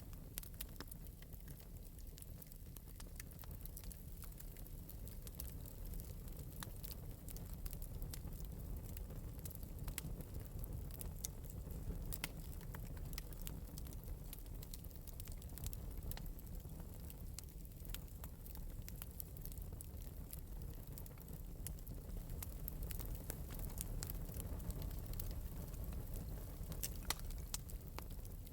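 Wood fire burning in an open metal fireplace: a steady low rumble of flames with light, scattered crackles and pops.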